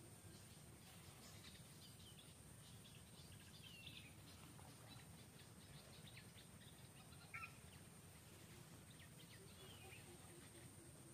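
Faint outdoor forest ambience with scattered short bird chirps and calls, one slightly louder sharp call about seven seconds in.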